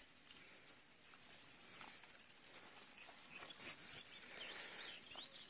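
Faint bird calls over quiet outdoor ambience: a thin high trill about a second in, then several short wavering chirps in the second half.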